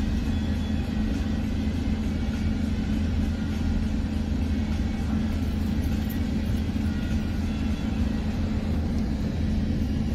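Steady rumble of a Bombardier bilevel commuter coach's wheels on the rails, heard from inside the car as the train accelerates through about 76 to 80 mph, with a steady low hum underneath.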